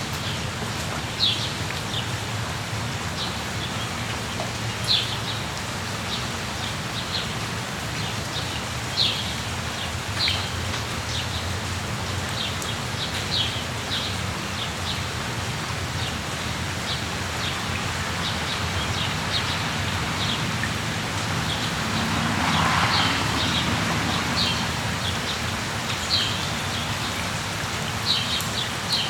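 Steady rain falling, with small birds giving short, high chirps every second or few. The rain swells briefly about three-quarters of the way through.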